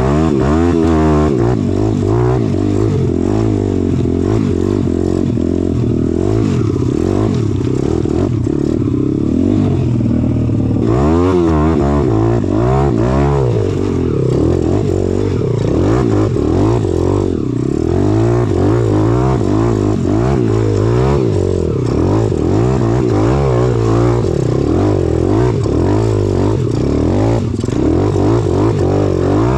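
Pitbike engine being ridden hard, revving up and down over and over as the throttle opens and closes.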